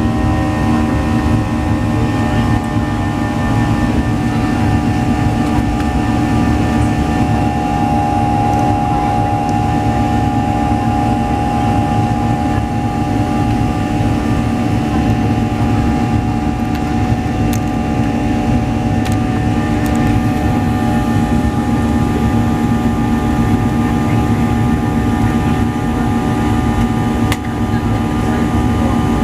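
Boeing 737 jet engines and rushing air heard inside the passenger cabin: a loud, steady roar with a constant hum of several held tones.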